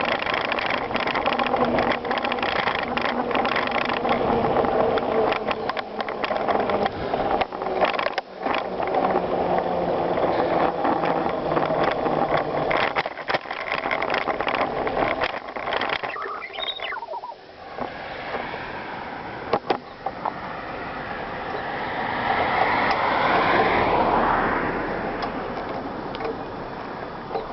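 Bicycle riding over gravel: tyres crunching and parts rattling, with ratchet-like clicking from the drivetrain. Near the end a broader rushing sound swells and then fades.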